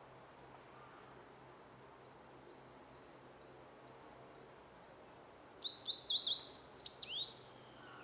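Songbird singing: a faint run of evenly spaced high notes, then about five and a half seconds in a loud, quick phrase of sweeping high notes lasting under two seconds.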